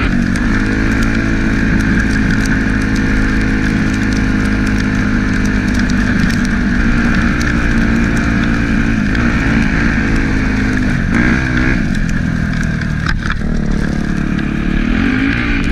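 Yamaha YZ250F dirt bike engine running at steady throttle while riding. Its pitch dips and climbs back a few times, briefly, in the second half as the throttle is eased and opened again.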